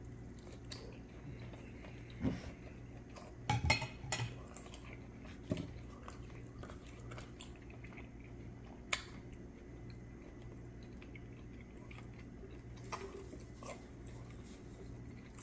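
A person quietly chewing a mouthful of steak, with a few sharp clicks and knocks from the fork and a drink can being handled, a cluster of them about three and a half seconds in. A low steady hum runs underneath.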